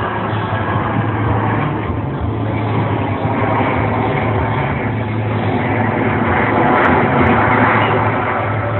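Jet noise from Blue Angels F/A-18 jets flying past, a steady rushing roar that grows louder about six to eight seconds in.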